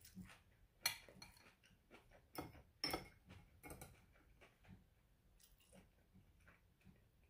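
Close-miked eating sounds: irregular soft wet clicks and smacks of a mouth chewing sushi.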